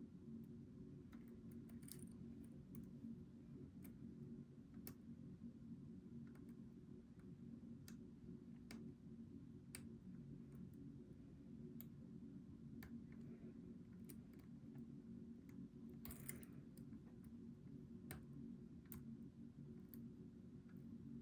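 Faint, irregular clicks of a steel hook pick working the pins inside a Goal V18 pin-tumbler lock, over a steady low hum.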